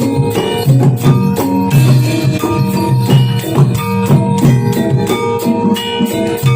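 Jathilan dance accompaniment: drums and struck, ringing gamelan-style metal instruments playing a steady repeating rhythm.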